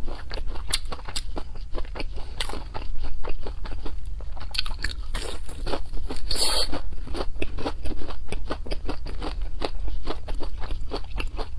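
Close-miked crunching and chewing of a crispy breaded fried cutlet, many quick crunches a few per second, with one louder crunch about six and a half seconds in, over a steady low hum.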